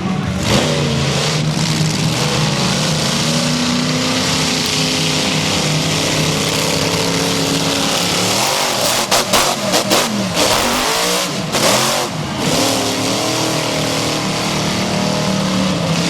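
Monster truck engine running loud and steady, then revving up and down for a few seconds about two-thirds of the way through, with a few sharp knocks among the revs.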